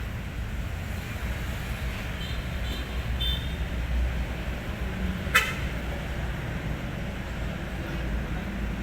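Diesel engine of a Hino 500 truck running with a steady low rumble. A few short high beeps sound about two to three seconds in, and a single sharp click about five seconds in.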